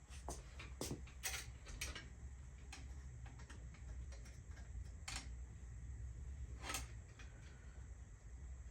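Light clicks and taps of lowrider bicycle parts being fitted together by hand: a quick run of four clicks in the first two seconds, then single clicks around five and seven seconds in, over a low steady hum.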